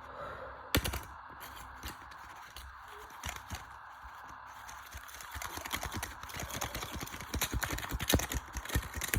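Tumble dryer, spun by a fitted washing-machine motor, knocking and clattering as it is shaken apart. A few sharp knocks at first, then about five and a half seconds in a dense, irregular rattle of knocks begins.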